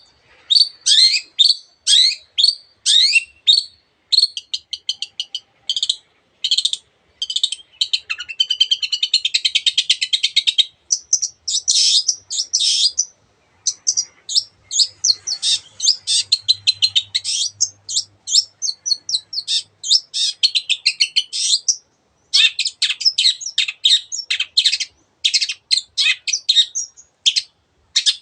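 Long-tailed shrike (cendet) singing a loud, fast, varied song of rapid repeated notes, downward-sweeping calls and harsh chattering, with mimicry of other birds' calls mixed in.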